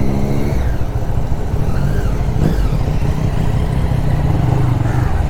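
Single-cylinder engine of a TVS Apache RTR 160 motorcycle running steadily at low speed.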